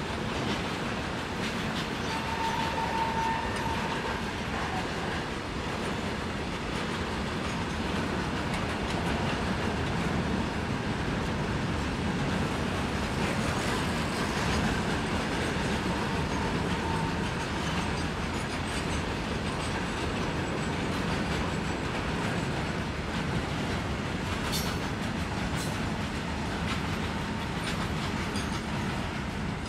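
A train running past at speed: a steady rumble with the clickety-clack of wheels over the rails throughout, a brief faint high tone a couple of seconds in, and a couple of sharp clicks near the end.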